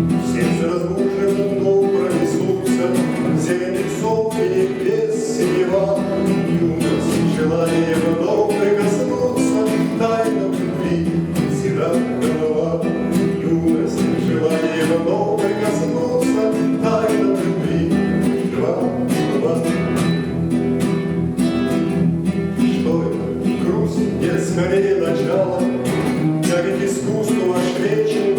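Music: a strummed acoustic guitar playing a steady rhythmic accompaniment.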